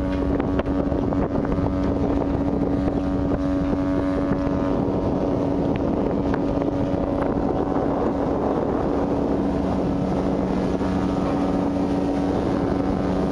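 A ship's engine droning steadily, with wind and rushing sea water over it, as heard on board a ship in a storm.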